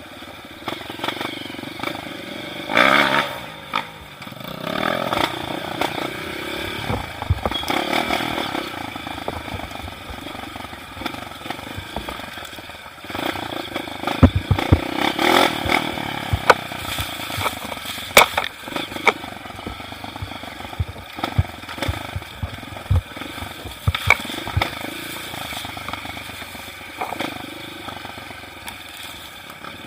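Off-road motorcycle engine running on a dirt trail, rising and falling with the throttle, with a run of sharp clattering knocks in the middle from the bike jolting over rough ground.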